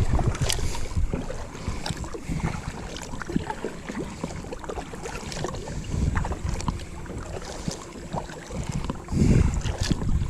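Wind buffeting a GoPro's microphone on a kayak, a low rumble that swells louder about nine seconds in, with scattered small clicks and knocks.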